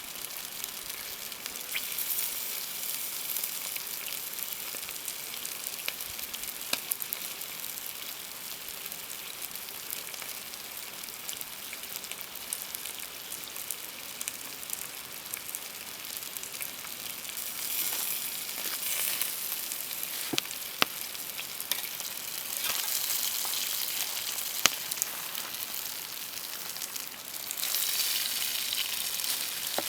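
Food frying in a pan, a steady sizzling hiss that swells several times, with a few sharp pops.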